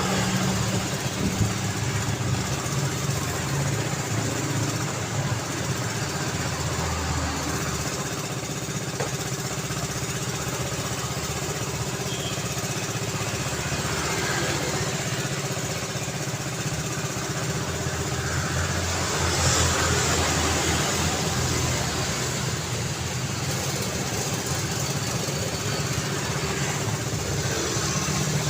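City road traffic: a steady hum of engines and tyres from passing vehicles, with one vehicle passing louder about two-thirds of the way through.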